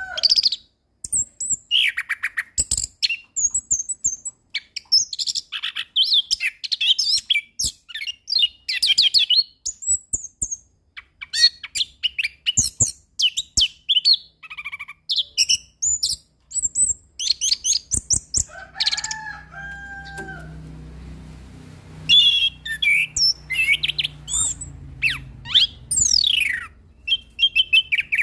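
Orange-headed thrush singing a fast, varied song of high chirps, whistles, trills and quick sweeping notes broken by short pauses, with a lower whistled phrase about two-thirds through.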